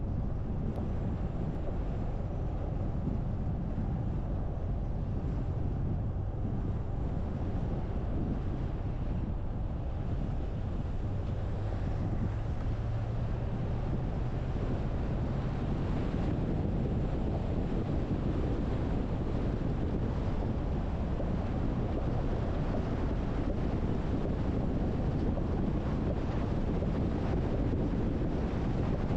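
A car driving: a steady low rumble of road and wind noise, with wind buffeting the microphone.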